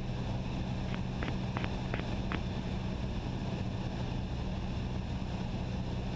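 Cessna 172SP's four-cylinder Lycoming engine and propeller droning steadily in cruise, heard inside the cabin. About a second in, five short clicks come in quick succession.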